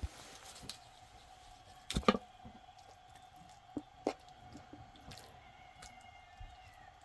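A few scattered sharp taps or knocks, the loudest pair about two seconds in, over a faint steady hum.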